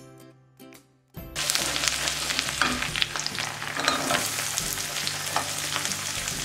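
Oil sizzling in an aluminium kadai as garlic and chopped onions fry and are stirred with a wooden spatula, with occasional scrapes. Soft background music plays in the first second, then the sizzle comes in loud about a second in and stays steady.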